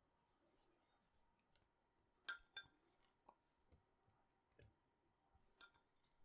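A few light clinks of dishes or cutlery, each a short ringing tap. The two strongest come close together a little past two seconds in, and softer taps follow.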